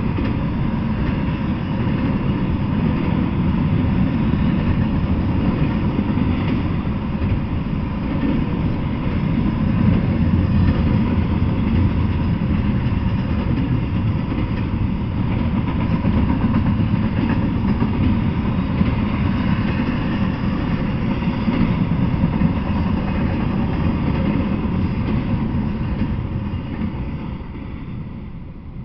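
Double-stack intermodal freight train rolling past, its wheels rumbling steadily on the rails; the sound fades near the end as the last car goes by.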